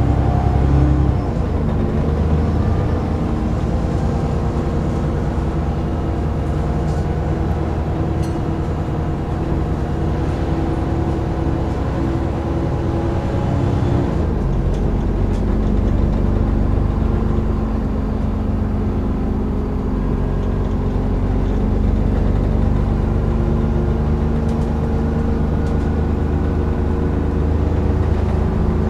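Dennis Trident 2 double-decker bus engine and driveline heard from on board while driving, with a 'hoovering' whine like a vacuum cleaner. The engine note shifts about a second in and changes again about halfway through, as the bus changes speed or gear.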